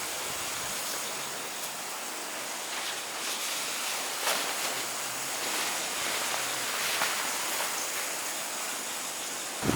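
Steady rain falling: an even hiss, with a few faint louder drops or taps.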